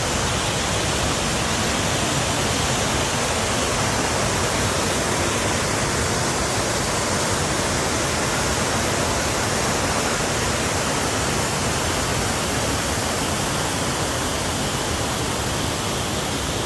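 Tinuy-an Falls' waterfall: a steady, even rush of falling water that does not change.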